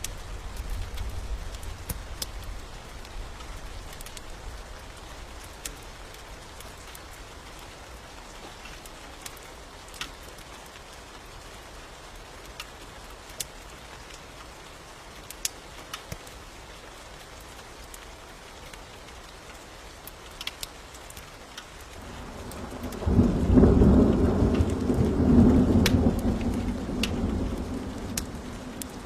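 Steady rain with a thunderstorm: a low rumble of thunder dies away at the start, then a loud rolling peal of thunder builds about 23 seconds in and fades near the end. Scattered sharp clicks sound over the rain.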